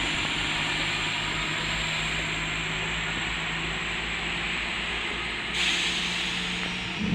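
Electric train at a station platform: a steady hiss with a thin high whine and a low hum, the hiss swelling about five and a half seconds in.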